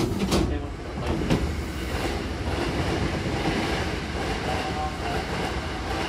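Hankyu Kyoto Line train car standing at a platform with its doors open: a steady hum and hiss from the car and station, with a few sharp knocks in the first second and a half and a faint brief tone near the end.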